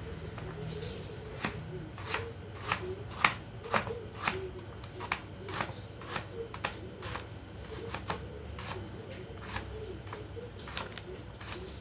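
Knife chopping carrots on a cutting board: irregular sharp taps, roughly two a second, thinning out near the end.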